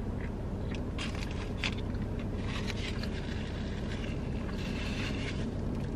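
Close-up chewing of a crispy fried chicken sandwich, with scattered crunches, over a steady low hum from the parked car.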